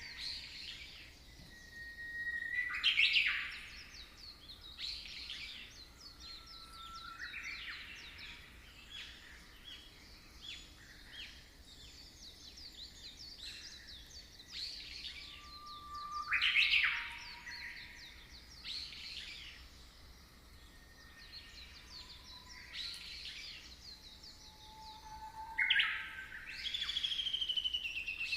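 Birdsong: several birds chirping and whistling over a faint steady hiss, with short rising and falling calls, louder bursts of song now and then, and a long falling whistle near the end.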